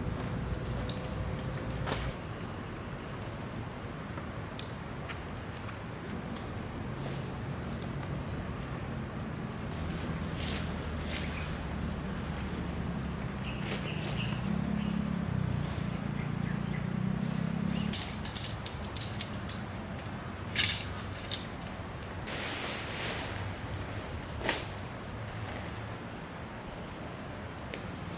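Night insects, crickets, trilling in a steady high-pitched drone, with a low hum swelling through the middle and a few sharp knocks.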